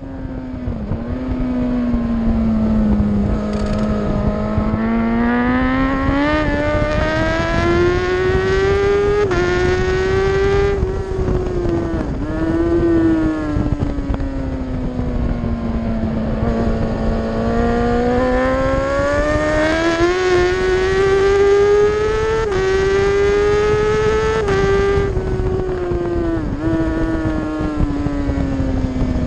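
Racing superbike engine heard from an onboard camera at full race pace, its pitch climbing under acceleration with quick drops at each upshift, then falling away as it slows for corners, several times over.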